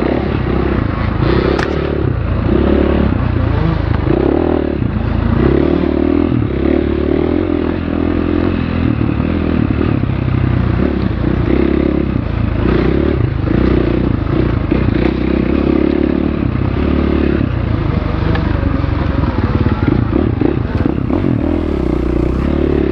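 Enduro dirt bike engine running on an off-road trail, the throttle opening and closing so the engine note rises and falls every second or so, with rattling from the bike over rough ground.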